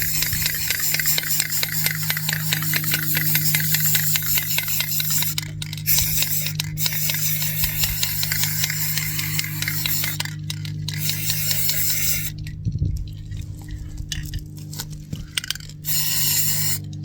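Aerosol spray paint can hissing as green paint is sprayed onto taped-off mini bike parts, in long bursts with short breaks about five and ten seconds in, stopping about twelve seconds in. A steady low hum runs underneath.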